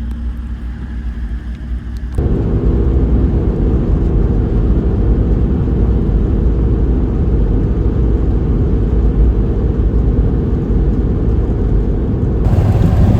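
A vehicle driving on the road: a steady drone of engine and road noise with a low hum, stepping up louder about two seconds in and then holding steady.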